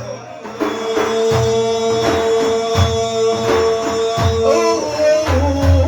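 Frame drums beating a steady rhythm, about one stroke every three-quarters of a second, under a long held note that ends near the end.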